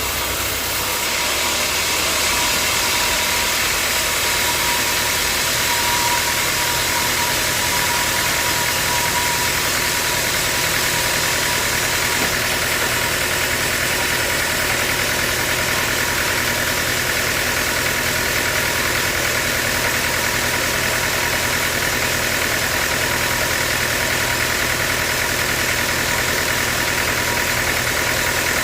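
Sawmill machinery running steadily: a constant motor hum under an even mechanical noise, with a faint steady whine for the first several seconds.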